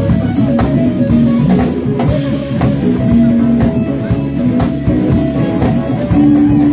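Live rock band playing: electric guitar over drum kit and bass, with sustained guitar notes.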